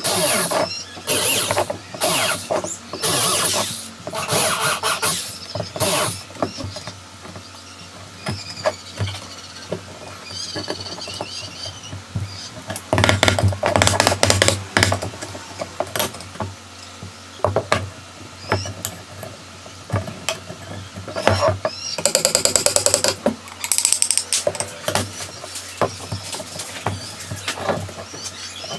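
Workshop work on bird-cage parts: a run of irregular knocks and scraping strokes, with a short, rapid buzzing burst about three-quarters of the way through.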